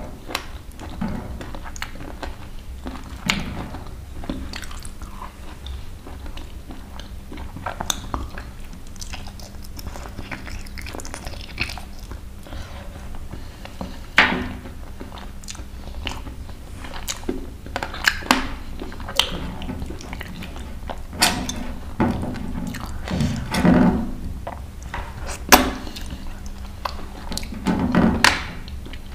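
Close-miked chewing and biting on dry-roasted (bhunja) country chicken, with irregular sharp crunches and mouth clicks. It gets louder and busier about halfway through.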